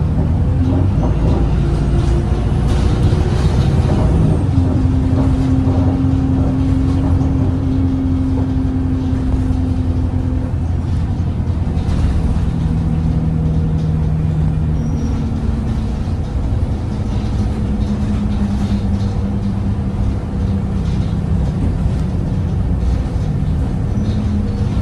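Alexander Dennis Enviro 200 bus with a Cummins ISBe diesel engine running under way, heard from inside the cabin: a steady low rumble with droning hum tones that hold a pitch for several seconds, then shift to a new one a few times.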